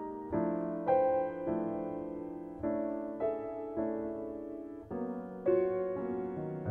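Slow solo piano music: sustained chords struck every second or so and left to ring and fade.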